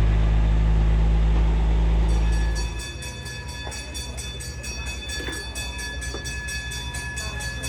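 Pikes Peak cog train running loudly with a low steady drone that falls away after about two and a half seconds. A fast, evenly repeating ring with several steady high tones follows.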